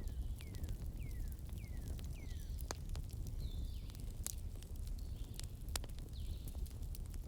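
Campfire crackling, with irregular sharp pops over a low steady rumble. Short falling whistles repeat through it, about two a second in the first couple of seconds and more scattered after.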